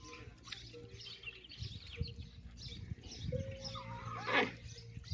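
Small birds chirping over and over in quick short notes, with one louder, short cry about four seconds in.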